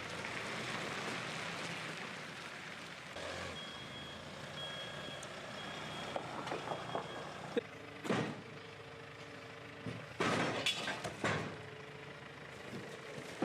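A vehicle backup alarm beeping in an even series over a running engine, followed by several loud short noisy bursts near the end.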